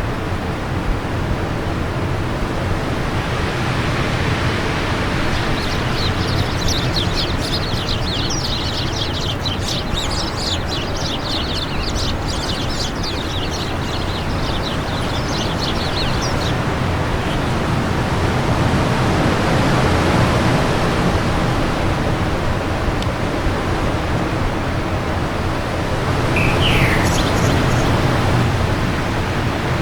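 Wind blowing steadily with birds singing. A long run of rapid, high chirping lasts about ten seconds in the first half, and a few short chirps come near the end.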